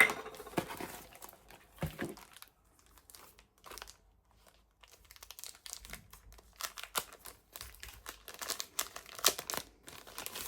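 Crinkling, rustling handling noise in irregular bursts, busiest in the second half, with a sharp knock right at the start.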